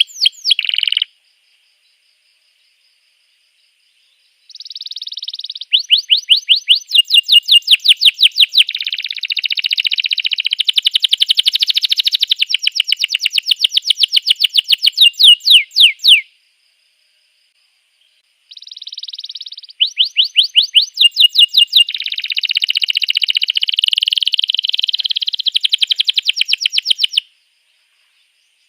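Domestic canary singing: two long song phrases of fast repeated trill notes and warbling, several seconds each, with a couple of seconds of silence between them.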